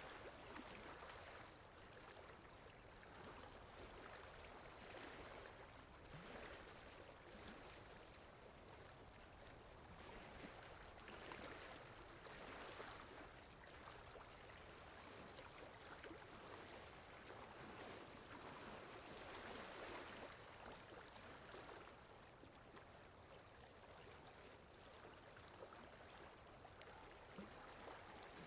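Steady rain, faint, its hiss swelling and easing every few seconds.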